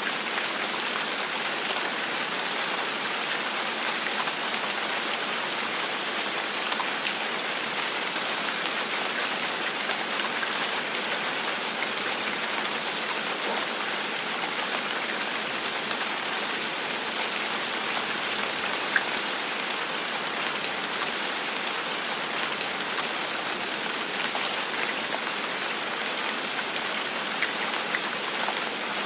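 Gentle rain falling steadily, an even hiss of many drops with a few single louder drop ticks standing out, one about two-thirds of the way through.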